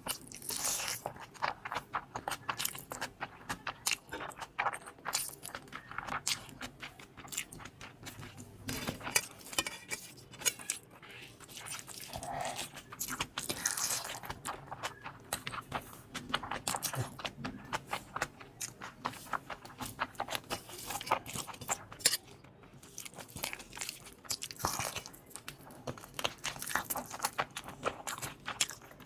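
A person chewing and crunching food close to the microphone, with irregular crisp bites and wet chewing sounds throughout.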